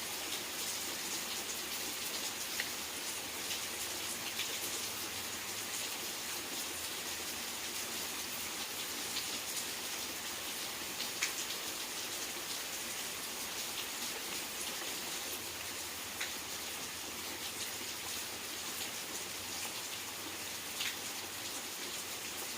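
Steady rain falling, an even hiss with occasional single drops ticking out, one more distinct about eleven seconds in.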